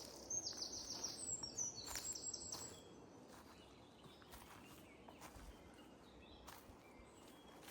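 A small songbird singing a fast run of high trilled notes that ends about two and a half seconds in, followed by faint scattered chirps and ticks.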